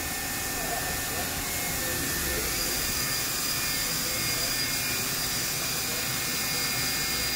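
Steady machine-shop background noise: an even hiss with faint steady whining tones, and a higher whine joining about two and a half seconds in.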